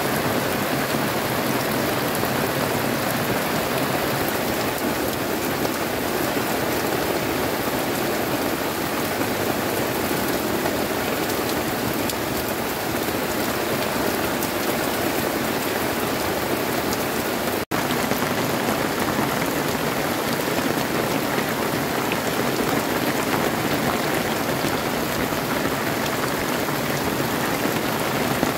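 Heavy rain falling steadily, a dense even hiss of drops with no let-up. The sound cuts out for an instant about two-thirds of the way through.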